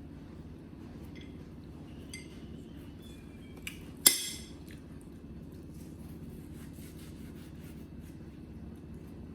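Tableware clinking: a few light clicks, then one sharp clink with a short high ring about four seconds in, over a steady low hum.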